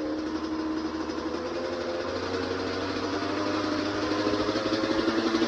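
Yamaha YZ125 two-stroke engine idling with the fuel turned off, running on what is left in the carburettor before it dies. It gets a little louder near the end.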